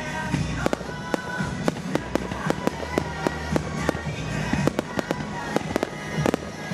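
Fireworks bursting in quick succession, many sharp bangs and cracks a second, over music with a steady bass line.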